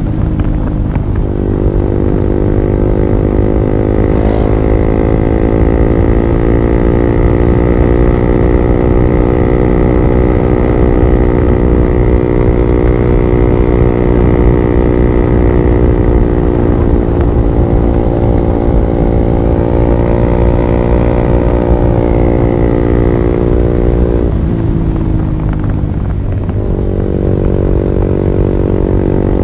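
Honda CB150R's single-cylinder engine running through an R9 Alpha Series aftermarket exhaust, held at a steady speed. The engine note dips and climbs back near the start, and falls and recovers again about three-quarters of the way through.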